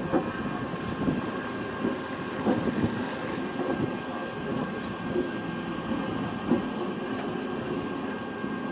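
Train running past on the track, a steady rumble with irregular knocks from the wheels and a steady high hum throughout.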